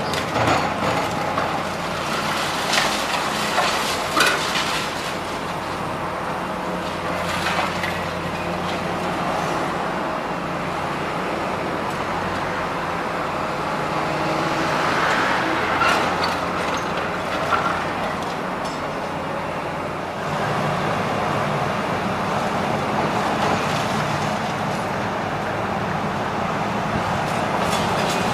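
Heavy demolition machinery with a diesel engine running steadily under road traffic noise. Scattered sharp clanks and crashes come through, several in the first few seconds and more near the middle. The whole sound gets a little louder about two-thirds of the way through.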